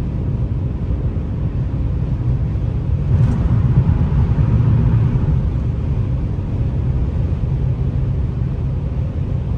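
2004 Lexus GS300 on the move: a steady low engine and road rumble that swells louder for about two seconds, starting about three seconds in.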